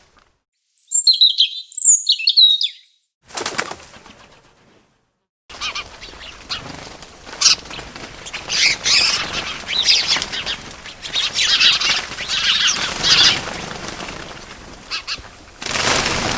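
Small birds chirping in quick high, sliding notes, mixed with flurries of wing flapping. About five seconds in, a busy stretch of chirping starts over a steady rushing background, and a loud burst of noise comes near the end.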